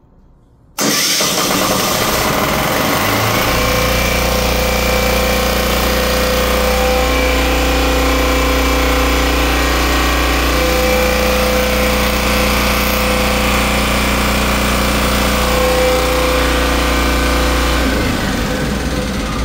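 Fire pump engine started from its control panel in manual mode: it starts suddenly about a second in and runs steadily and loudly, driving the fire pump against a closed discharge valve as a test run. Near the end the sound begins to fade.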